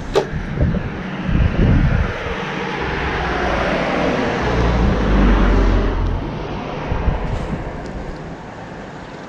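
A road vehicle passing by, its rumble building to a peak about five seconds in and then fading away, with a few knocks in the first two seconds.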